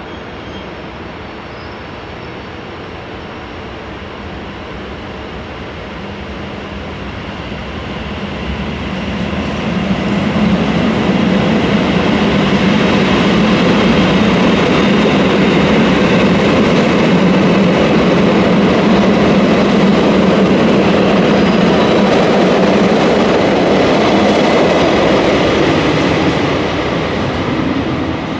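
JR Hokkaido 789 series 1000 electric multiple unit running on the rails. The noise builds over several seconds, stays loud with a steady low hum for about fifteen seconds, then eases off near the end.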